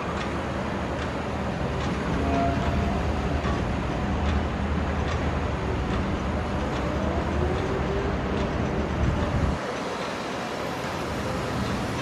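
Heavy diesel machinery on a construction site, an excavator working as it loads a tractor-drawn dumper: a steady low engine rumble with faint regular clicks and some rising and falling whines. The low rumble drops away suddenly near the end.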